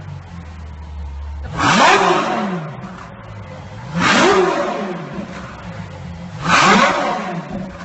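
Car engine idling and revved three times, each rev climbing quickly in pitch and falling back to idle.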